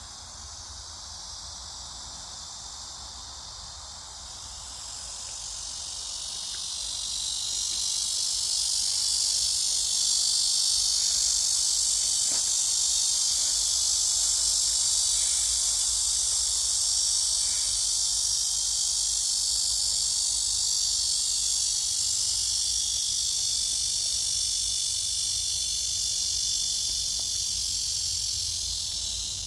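A dense, high-pitched insect chorus, shrill and continuous. It swells louder between about four and eight seconds in, then holds steady.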